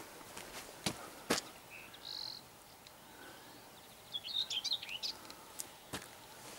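Small birds chirping outdoors: a short high call about two seconds in and a quick run of chirps around four to five seconds in, with a few sharp clicks in between.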